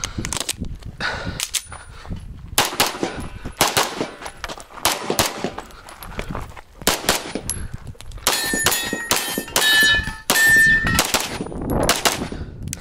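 Strings of rapid pistol shots from an Open-division Limcat 9mm Major race pistol firing through a course of fire. From about eight to eleven seconds in, steel targets ring out between the shots as they are hit.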